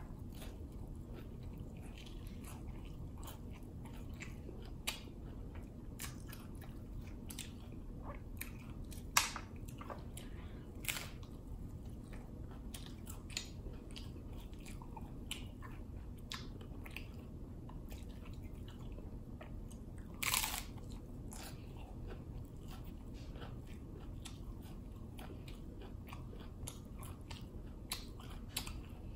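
A person chewing and biting a Taco Bell Doritos Locos taco: the hard, cheese-flavoured corn shell crunches in many small crisp cracks, with a few louder bites about nine, eleven and twenty seconds in.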